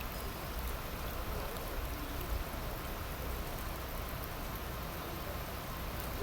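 Steady rain falling in a thunderstorm downpour.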